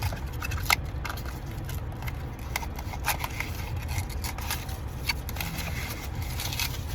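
Rummaging through a bag of ripped-open cardboard blind boxes and loose small plastic toys: scattered rustles, crinkles and light clicks over a steady low rumble.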